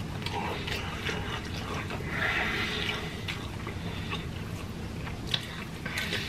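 Close-miked chewing and mouth sounds of people eating, with scattered small clicks and a breathy rush about two seconds in.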